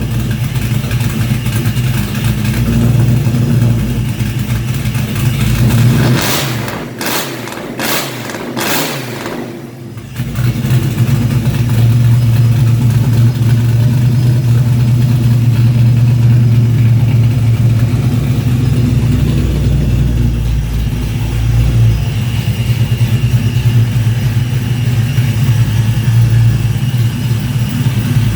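An engine run on its first start-up, running steadily with a low, even note. About six seconds in the note drops away for a few seconds amid several loud rushing bursts, then picks back up and runs steadily again.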